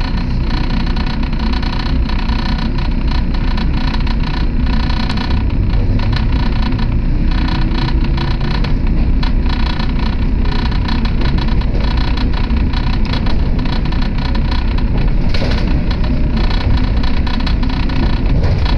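Running noise of an electric train heard from inside the carriage while it travels at speed: a steady, loud rumble.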